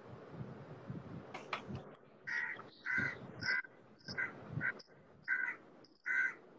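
Birds outside a window calling: a run of about seven short calls, roughly two a second, starting about two seconds in.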